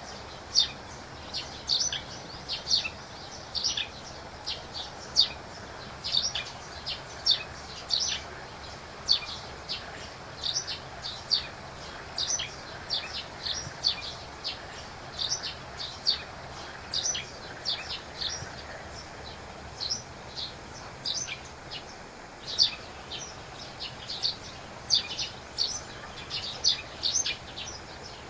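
Birds chirping: many short, high, sharp chirps repeating a few times a second in irregular runs, over a steady low background noise.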